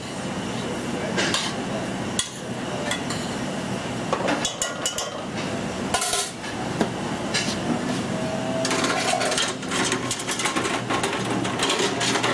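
Metal pan and utensils knocking and clinking at irregular intervals as pasta is worked in the pan, over a steady low hum.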